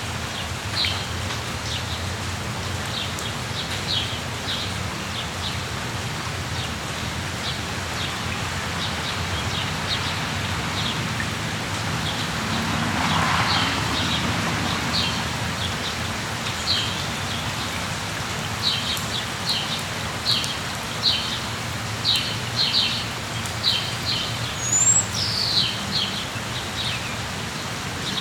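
Steady rain falling, with small birds giving short, high chirps throughout. The chirps come more often in the second half, and one bird gives a brief whistle near the end. A swell of noise rises and fades about halfway through.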